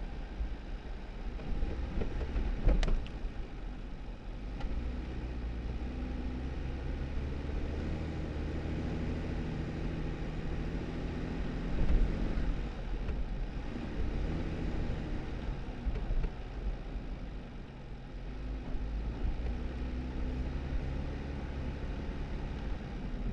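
2018 Jeep Wrangler driving on a snowy back road: a steady low engine hum and tyre rumble, with a sharp knock about three seconds in and a thump near the middle as the Jeep goes over bumps.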